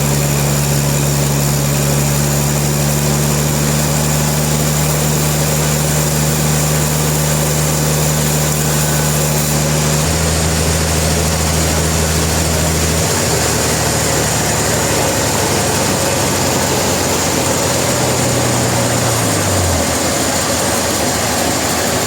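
Sawmill engine running steadily under a loud hiss. Its hum steps down in pitch about ten seconds in and again a few seconds later, then slides lower near the end.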